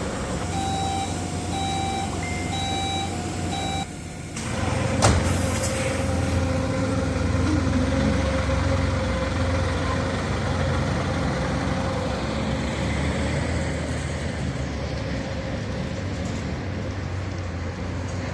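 Heavy vehicle engine idling with a steady low rumble. About four short electronic beeps sound in the first few seconds, like a reversing alarm. A single sharp knock comes about five seconds in.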